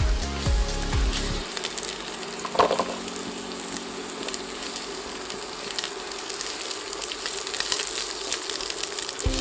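Garlic, ginger and onion sizzling and crackling in hot oil in a pan as they are stirred, with one brief louder knock about two and a half seconds in. Background music stops about a second and a half in and comes back at the very end.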